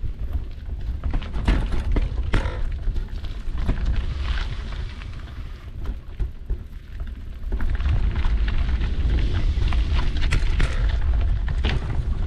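Mountain bike riding over a dirt trail, heard from a bike- or rider-mounted action camera: a heavy low rumble of wind buffeting the microphone, with many sharp knocks and rattles as the bike goes over bumps. The knocks come thickest in the second half.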